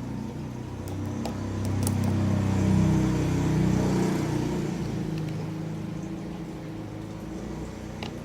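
A motor vehicle's engine passing by: a low hum that swells to its loudest about three seconds in and then fades away, with a few light clicks near the start.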